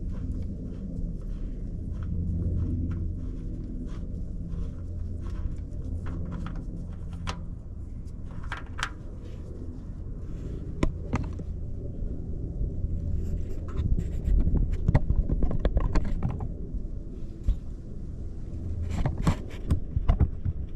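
Small clicks and scrapes of a threaded oil-filter-housing drain fitting being unscrewed by hand, over a steady low rumble.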